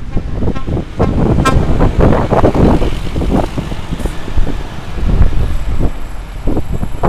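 Trucks in a convoy driving past, engines running, with a short horn toot about a second and a half in.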